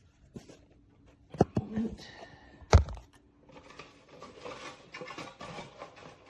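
Handling noise from fitting a replacement paper dust bag into a bagged upright vacuum's plastic bag compartment: a few sharp plastic knocks and clicks, the loudest about three seconds in, then rustling.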